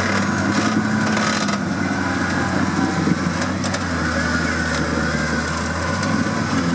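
Off-road vehicle's engine running steadily, with a few brief knocks about three seconds in.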